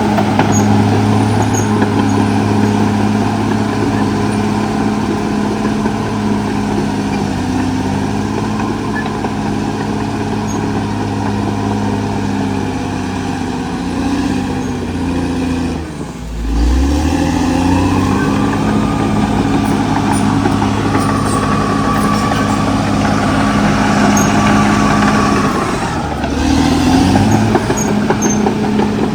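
Cat D6R XL bulldozer's diesel engine running steadily under load, its revs dipping sharply about halfway through and again near the end, each time picking back up within a second or so. A higher whine rises with the revs after the first dip and holds for several seconds.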